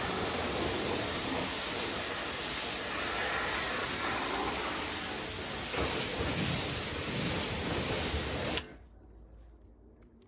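Water spraying onto a car's bodywork during washing: a steady hiss that cuts off suddenly about eight and a half seconds in.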